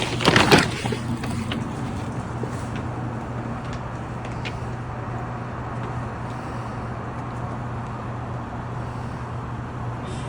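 Steady low engine hum over a haze of noise, with a few knocks in the first second.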